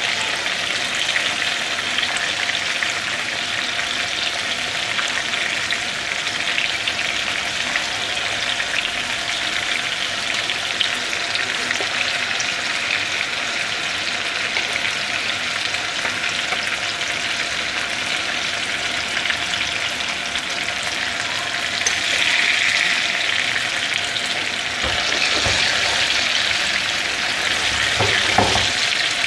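Crumb-coated chicken fingers frying in hot oil in a pan: a steady crackling sizzle. It swells louder twice in the last several seconds, with a couple of low knocks near the end.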